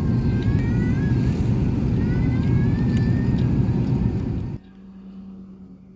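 Airbus A380 cabin noise in flight: the steady low rumble of engines and airflow, which cuts off suddenly about four and a half seconds in, leaving a faint steady hum.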